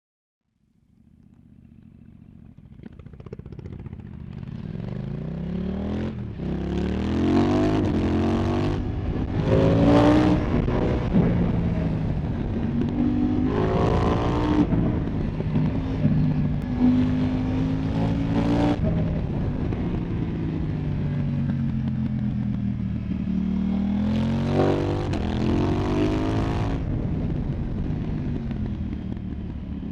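2024 KTM Duke 990's parallel-twin engine through an Arrow Pro Race exhaust. It fades up over the first few seconds, then revs up about five times, each time climbing in pitch with a raspy exhaust note, between spells of steadier running.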